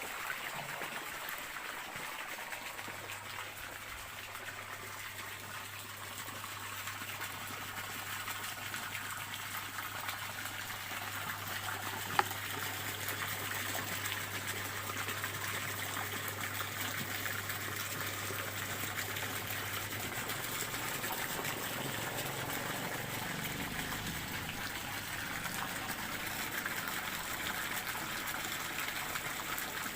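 Stream water running and trickling steadily, with a faint low hum beneath it for much of the time and a single sharp click about twelve seconds in.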